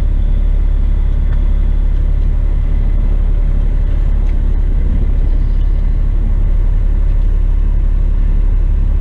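Western Star tipper truck's diesel engine running steadily with a low, unbroken drone.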